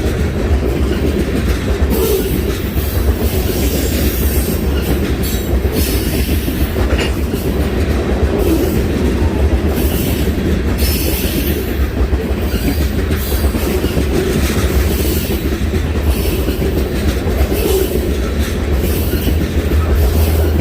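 Train rolling past: a steady, loud rumble of railcars, with wheels clicking irregularly over rail joints.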